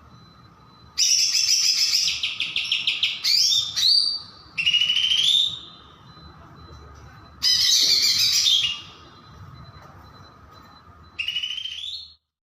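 Green leafbird (cucak ijo) singing in loud, high phrases of fast chattering notes and rising whistled slurs, about five phrases with short pauses between them, cutting off suddenly near the end.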